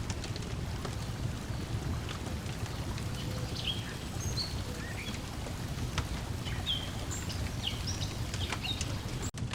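Lakeside nature ambience: a steady low wash of lake water lapping, birds chirping in short high notes, and scattered sharp crackles from a wood fire. The sound drops out for an instant near the end.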